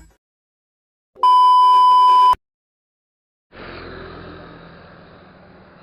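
A loud, steady electronic beep lasting about a second, a single high pure tone that starts and cuts off abruptly between two stretches of silence. Low, even background noise fades in near the end.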